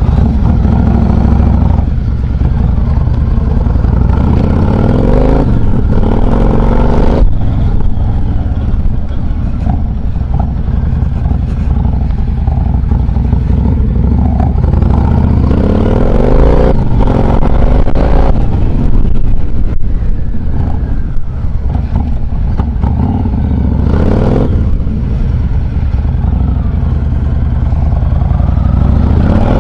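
Yamaha XV1900 Star Raider's big air-cooled V-twin running under way. Its pitch rises and falls several times as the bike pulls away and accelerates.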